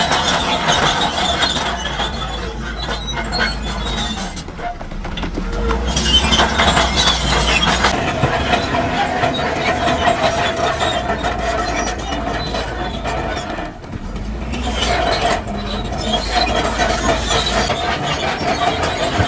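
Heavy crawler machine at work: its steel tracks give a steady squeal over the rumble of a diesel engine, easing off briefly twice.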